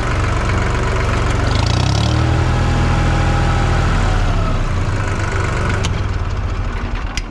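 Vehicle engine revving up sharply and running hard under load, pulling on a chain; its pitch climbs about two seconds in, holds, then eases off near the end.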